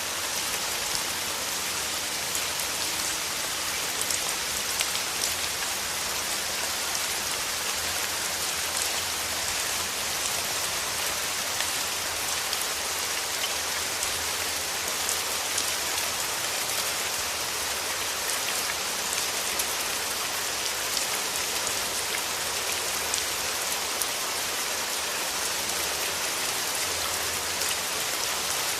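Steady rain falling through forest trees: an even hiss with scattered individual drops ticking.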